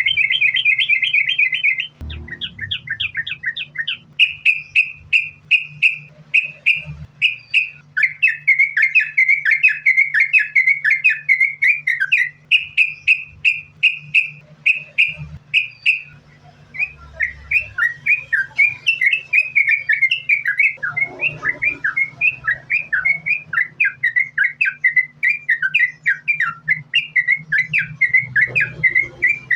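Yellow-vented bulbul (trucukan) singing a long, unbroken run of quick chirping notes, several a second, over a steady low hum.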